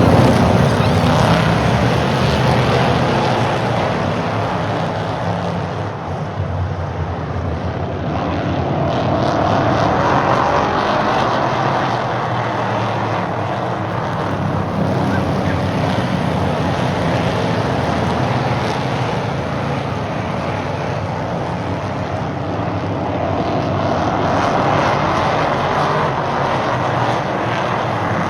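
Pack of stock cars racing around a short oval track, their engines running hard. The sound swells twice, about fifteen seconds apart, as the field comes past each lap.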